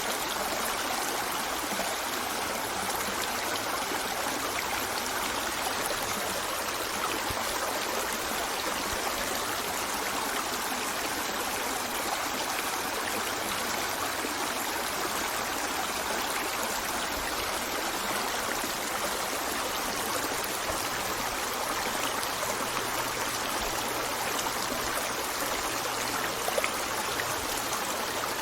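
A shallow river running steadily over stones, a continuous even rushing and burbling of water.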